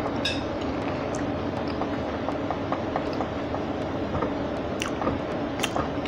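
Close-miked chewing, with small wet mouth clicks throughout and a couple of sharper crunches near the end, over a steady background hiss.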